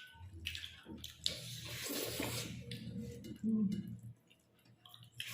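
Wet mukbang eating sounds of rice with chicken gravy: squelchy chewing and mouth noises, with a few light clicks.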